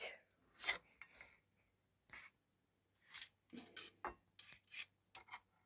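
Several short scrapes of metal on a plate, in separate strokes with a cluster in the middle: cooked shashlik being pushed off its skewers onto a plate.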